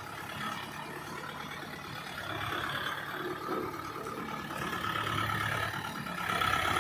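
Tractor diesel engine running steadily, getting louder about two seconds in and again near the end.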